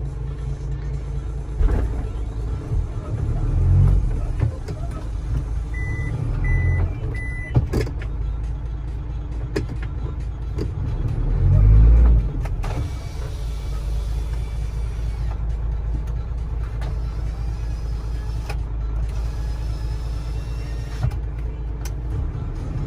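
Heavy truck's engine running with a steady low rumble that swells louder several times, as under load. Three short high beeps sound about six seconds in.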